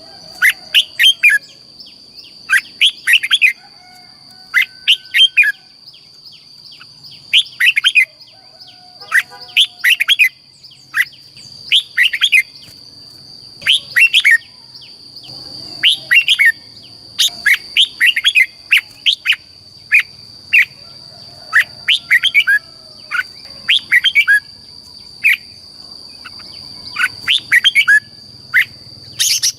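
Red-whiskered bulbul singing short, rapid, warbling phrases, one every second or two, over a steady high-pitched whine.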